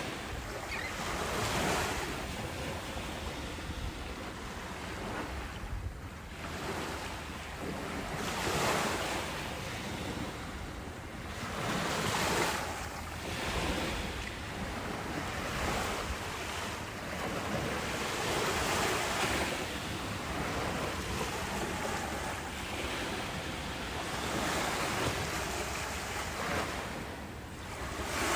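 Ocean waves, a steady rush of surf that swells and fades every few seconds as each wave washes in.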